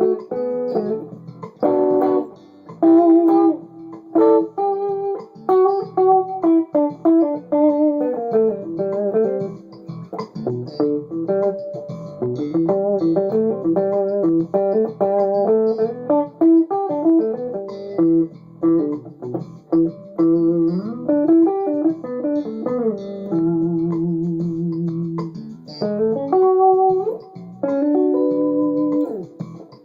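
Rebuilt 1963 Fender Duo-Sonic electric guitar played on its humbucker pickups: picked single-note runs and chords, with one chord held for about two seconds a little past the middle.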